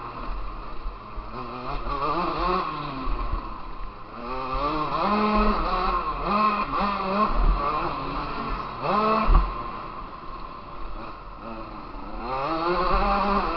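KTM motocross bike's engine, heard from onboard, revving up and dropping back again and again as the throttle is opened and closed, the pitch sweeping up and down several times. A dull thump comes about nine seconds in.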